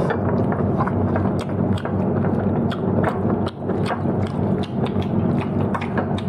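Close-up eating sounds: chewing and mouth smacks making irregular sharp clicks, several a second, over a steady low hum.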